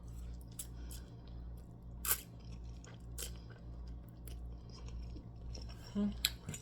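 A person chewing food close to the microphone: scattered wet mouth clicks and smacks, a louder one about two seconds in, over a steady low hum.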